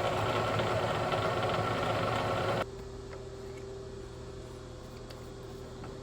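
Vertical milling machine's spindle running steadily while an edge finder locates the edge of a steel plate. A little before halfway the sound drops abruptly to a quieter, steady hum.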